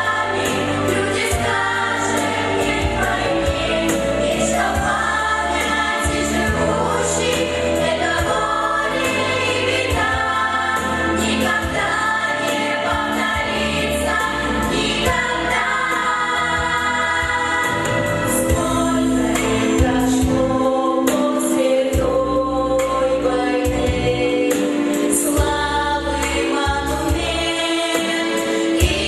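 Vocal ensemble singing a song in unison and harmony over a backing track with a steady beat.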